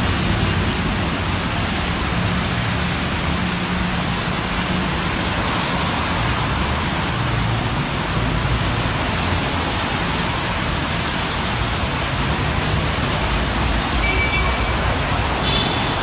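Heavy rain pouring on a wet road amid city traffic: a steady hiss of rain with car engines running low underneath.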